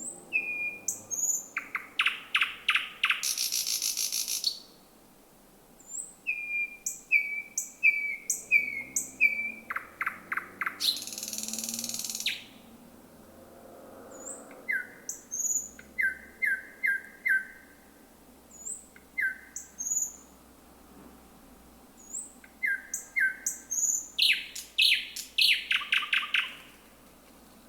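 Thrush nightingale singing: three phrases of fast repeated notes and high thin whistles, with short pauses between them. The first two phrases each end in a harsh rattling burst.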